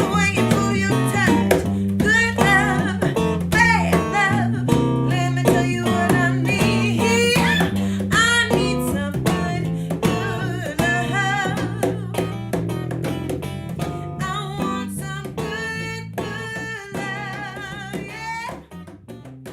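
Acoustic guitar strummed while a woman sings, fading out near the end.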